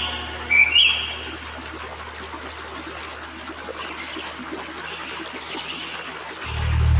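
Water trickling and running steadily, with a few short, rising bird chirps in the first second and fainter chirps later. A low steady hum swells in near the end.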